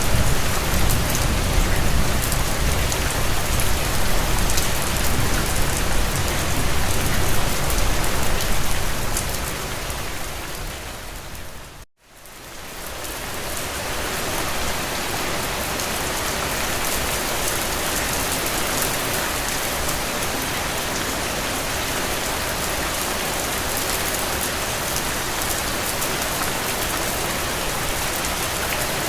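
Steady rain falling on a window, a dense even hiss, with a low rumble under it in the first seconds. About twelve seconds in, the rain fades out to a moment of silence and fades back in, then runs on steadily.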